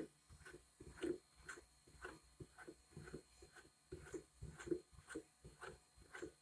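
Vinyl record being hand-washed in a Vinyl Styl record washer: faint, uneven, wet rubbing and swishing strokes, two to three a second.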